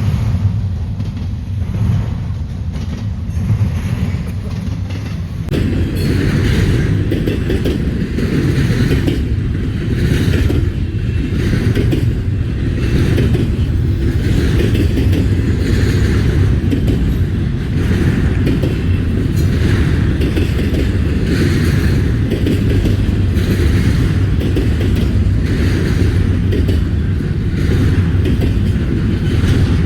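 Double-stack freight train rolling past close by, a steady heavy rumble with a regular clatter of wheels over the rail joints about once a second.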